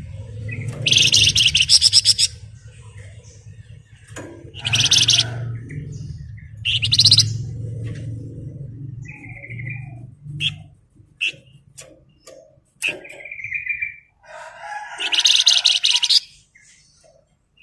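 Flamboyan songbird singing, with dense, rapid trilled bursts ('ngebren') broken by short chirps and clicking notes. A low hum sits underneath and stops about ten seconds in.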